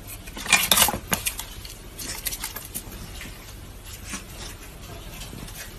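A burst of rustling and clattering about half a second to a second in, then scattered light knocks and rustles over a steady low hum.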